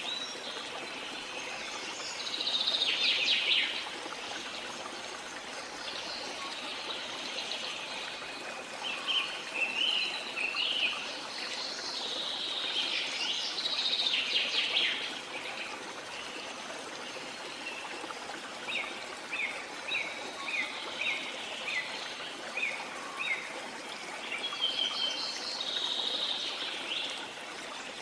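Several bird species calling and singing over a steady rush of flowing water. The birdsong comes in bouts, with runs of short repeated chirps in the middle and a louder burst of song near the end.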